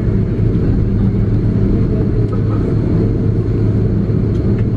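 Steady low rumble and hum inside the cabin of an Airbus A330-300 taxiing after landing, its Pratt & Whitney PW4168A engines at low thrust.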